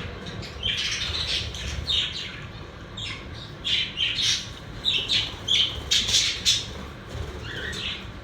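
Pet budgerigars calling in a quick string of short, sharp chirps and squawks, busiest in the middle, over a low background rumble.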